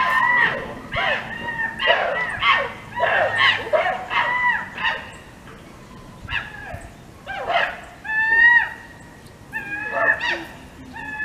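Birds calling over and over: short, high calls that rise and then fall in pitch, coming in runs with brief pauses between.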